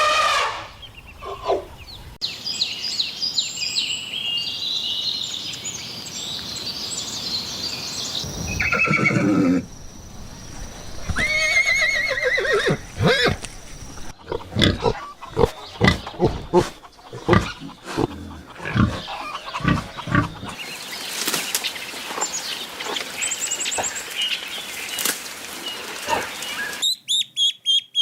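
Farm animal calls in a series of short clips: high chirping calls, a pitched animal call partway through, a stretch of sharp knocks, and rapid high peeping near the end.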